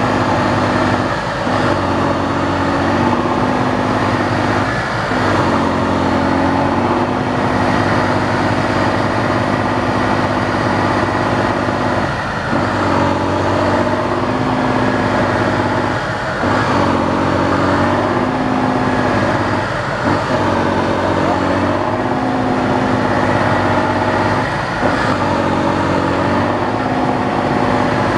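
Tatra 813 8x8 truck's air-cooled V12 diesel engine running hard under load. Its steady note breaks off briefly every few seconds and then picks up again.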